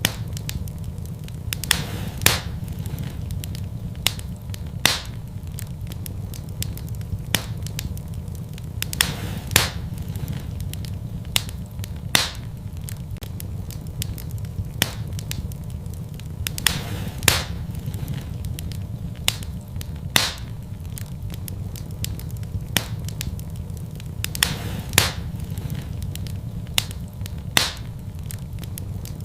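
Wood fire burning in a fireplace, crackling with sharp, irregular pops every second or two over a steady low rumble.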